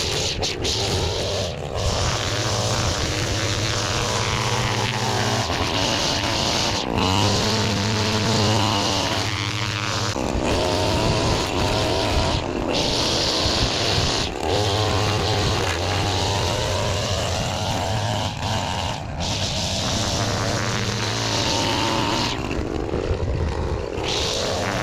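Gas string trimmer (weed whacker) running, its engine speeding up and dropping back several times as it cuts.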